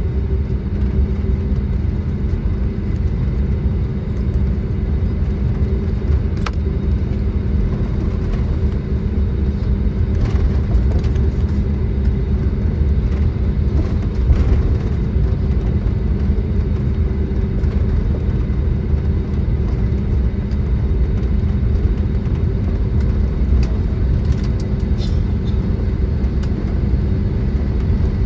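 Airbus A320neo cabin noise while taxiing after landing: a steady low rumble from the CFM LEAP-1A engines at idle and the aircraft rolling, with a steady hum under it and a few faint ticks.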